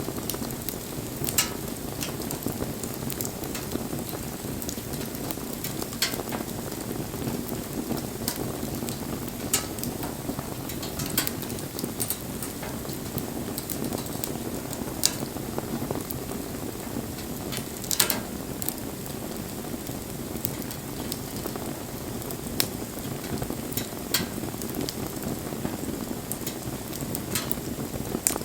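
Wood campfire burning: a steady crackling hiss, with sharp pops from the burning wood at irregular intervals, about a dozen of them, one of the loudest a little past the middle.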